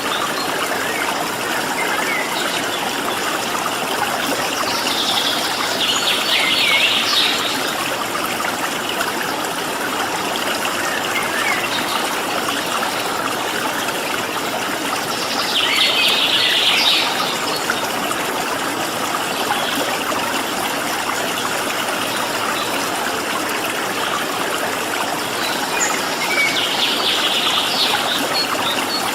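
Flowing water, a steady trickling stream, with a bird singing three short bursts of high song about ten seconds apart.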